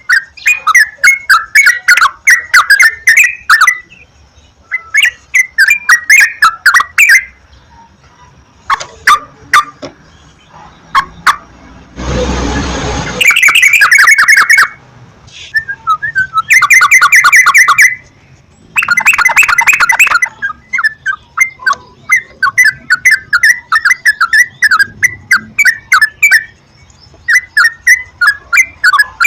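Yellow-vented bulbul (trucukan) calls: loud, rapid chattering phrases of short notes repeated in bursts of a few seconds, some of them clipped. About halfway there is a burst of hiss lasting about a second.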